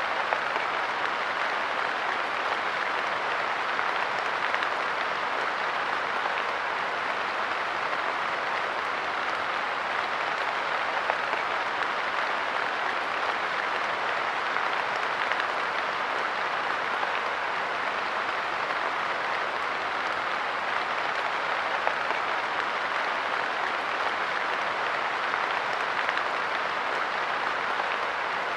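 Light rain falling steadily on a park bench, an even hiss of drops with a few slightly louder drop hits here and there.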